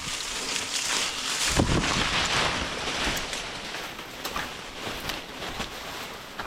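Rustling and wind noise on a body-worn action camera moving through forest, with scattered light crackles and a heavy low buffet on the microphone about one and a half seconds in.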